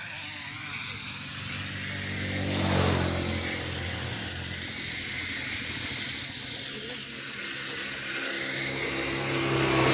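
A diesel spray gun hissing as diesel is sprayed over a tractor's body, over a steady engine-like hum that grows louder about three seconds in.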